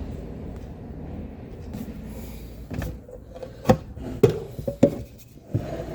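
A handful of sharp knocks and clicks with some rubbing, starting a few seconds in, as a restored ship's navigation light is handled and opened up to show its inside.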